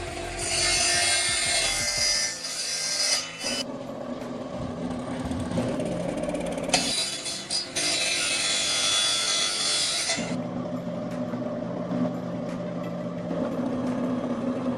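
Power abrasive tool such as a sander or grinder running with a steady hum, broken twice by a few seconds of harsh grinding hiss as the workpiece is pressed against it.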